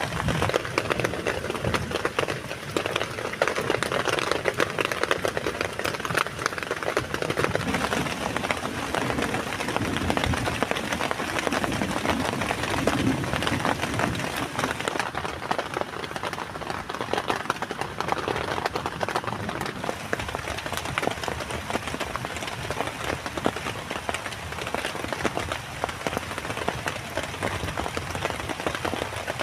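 Heavy rain falling steadily, a dense patter of many drops striking close by.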